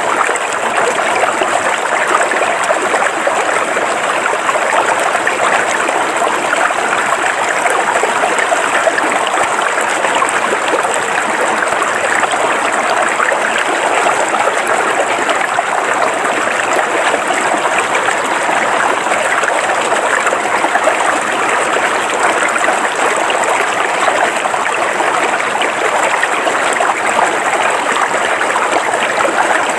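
River water flowing steadily over rocks, a continuous even rush and babble of a shallow stream.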